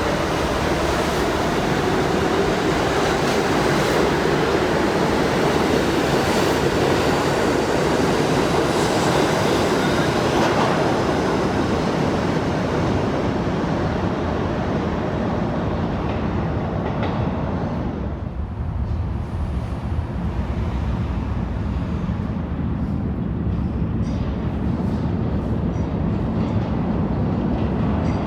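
New York City subway train running through the station, a loud rumble with hiss of steel wheels on rail. About two-thirds of the way in the high hiss falls away to a lower rumble, with a few sharp clicks of wheels over rail joints near the end.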